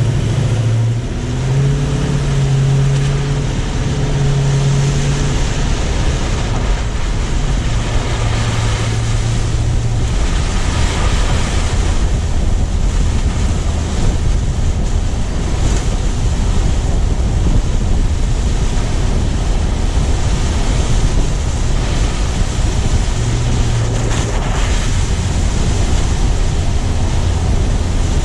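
A car driving: a steady low rumble of tyres on the road, with wind buffeting the microphone and a low engine hum in the first few seconds.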